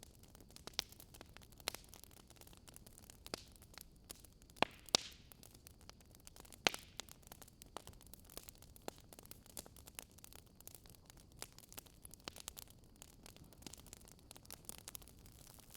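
Burning wood fire crackling softly, with irregular sharp pops and snaps over a low steady hiss.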